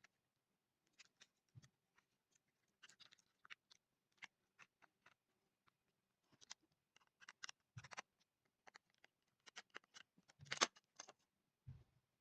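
Faint, irregular clicks and scrapes from small hard objects being handled, with a few light knocks; the loudest knock comes about ten and a half seconds in.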